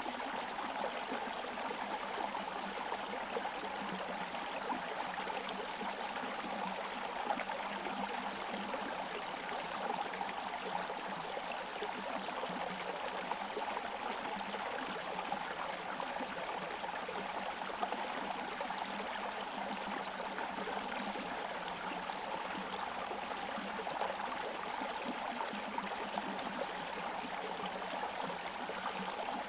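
Small forest stream flowing and gurgling steadily over stones, its surface partly frozen.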